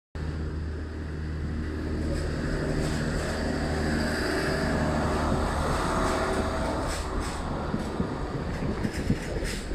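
Passenger multiple-unit train running slowly past, a steady low hum with a pitched drone. In the last few seconds there are scattered clicks and knocks of wheels on the track.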